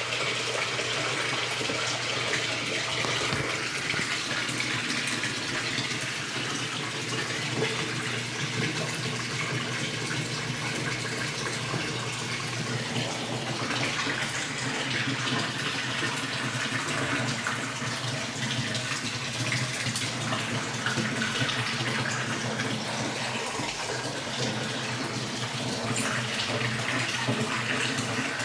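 Electrolux LTE12 top-load washing machine with water running steadily in its tub, over a low steady hum.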